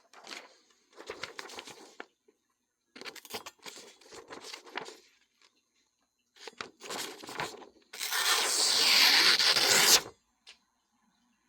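Freshly sharpened knife making test slicing cuts, a dry scratchy slicing sound. There are several short strokes, then one longer, louder slice lasting about two seconds near the end.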